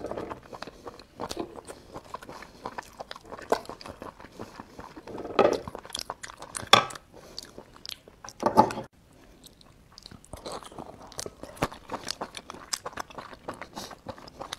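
Close-miked chewing and biting of sea snail meat: many small wet clicks, with a few louder bursts in the middle.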